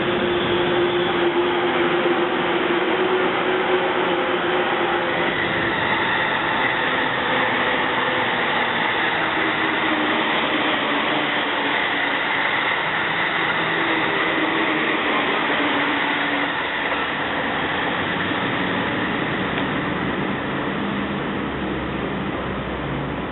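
Electric train running by on the rails, a loud steady rolling noise with a held whine above it that shifts pitch a little and eases near the end.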